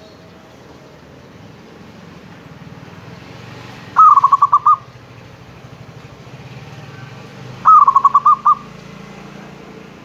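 Zebra dove (perkutut) cooing twice, about four seconds apart, each call a quick rolling run of short notes that starts a little higher and settles lower. A faint steady low hum lies underneath.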